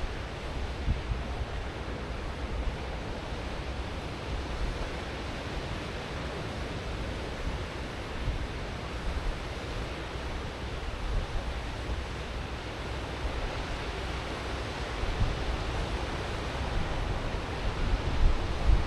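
Ocean surf washing on the shore in a continuous rush, swelling a little louder near the end. Wind buffets the microphone, adding an uneven low rumble.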